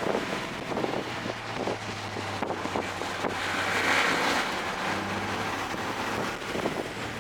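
A 2024 Toyota GR Corolla's turbocharged three-cylinder engine, fitted with an aftermarket SXTH Element intake, running on track and heard from inside the car over a steady rush of wind and road noise. Its note shifts in pitch a few times, and there is a louder rushing hiss about four seconds in.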